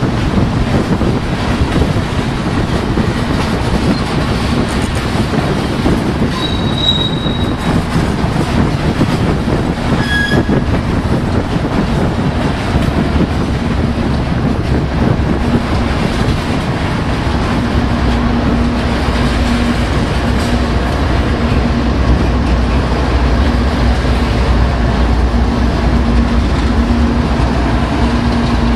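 Loaded coal hopper train rolling past, with a steady rumble and clatter of steel wheels on rail and brief high wheel squeals about seven and ten seconds in. In the last third the low hum of a diesel locomotive, the train's rear distributed-power unit, grows in as it draws near.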